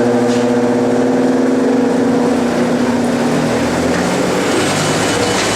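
Workshop dust collection and a General Model 350 cabinet table saw running: a steady machine hum that gives way to a rougher, noisier sound about two and a half seconds in.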